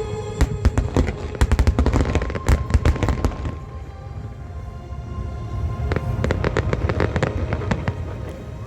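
Fireworks exploding in rapid, dense volleys of bangs and crackles, thinning out about halfway through and picking up again near the end, with music playing underneath.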